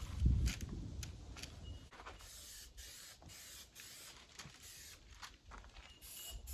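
Spray paint hissing in short bursts, with a run of clicks and light knocks, and a longer spell of hiss about two seconds in.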